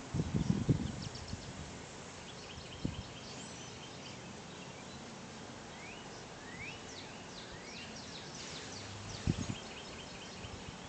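Outdoor ambience with songbirds chirping: short trills and a few quick rising whistles. Short low rumbles come in the first second and again about nine seconds in.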